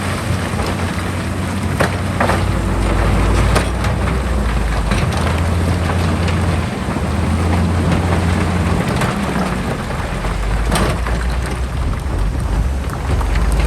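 Heavy diesel earthmoving machinery running under load, a deep steady engine note that shifts a little in strength, with scattered clatter and knocks of soil and rock being moved.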